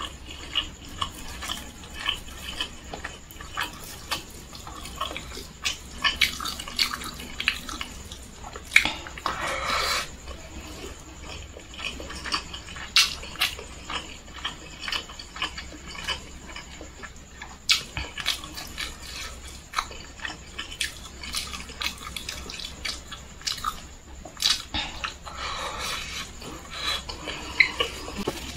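Close-up wet chewing and mouth smacking from a person eating rice and fried chicken by hand, with many short sharp clicks and squishes.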